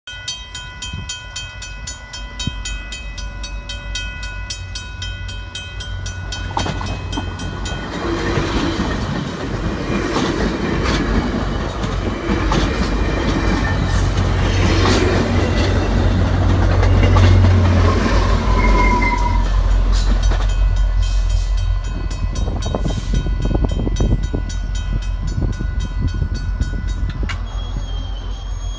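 A passenger train rolls past a pedestrian crossing, its wheels clattering on the rails. The GMD F40PH2 diesel locomotive's engine rumbles deep, loudest a little past the middle. Before and after the loudest part, the crossing's warning bell rings steadily.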